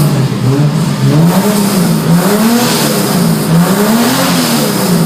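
Chevrolet Opala Diplomata's straight-six engine running loud, idling briefly and then revved up and down a few times before dropping back toward idle near the end.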